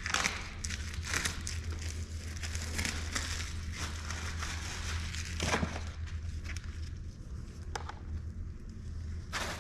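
Irregular crinkling, scraping and small knocks of hands working on a skid steer's fuel filter, over a steady low hum.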